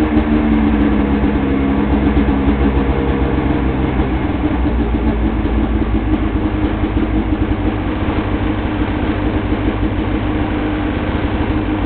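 2002 Arctic Cat ZR 800 snowmobile's two-stroke twin idling through its stock factory exhaust. The note is steady and even at first, then turns rougher and less even about four seconds in.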